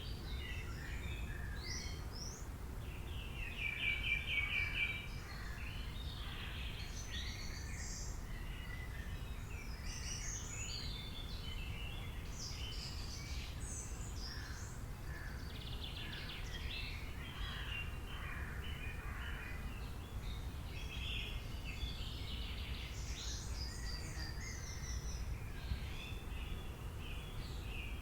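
Tropical rainforest bird chorus: many birds chirping and calling over one another, with a fast trilled call about four seconds in, over a steady low rumble.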